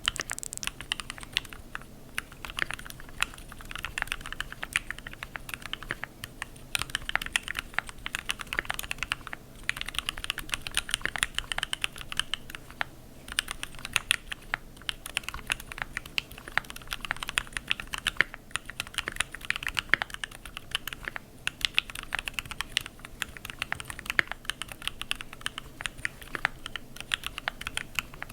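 Typing on a computer keyboard: quick runs of key clicks lasting a few seconds each, separated by brief pauses.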